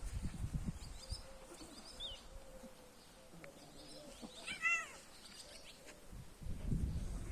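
A cat gives one short meow about two-thirds of the way through, over low rustling and bumping near the start and the end.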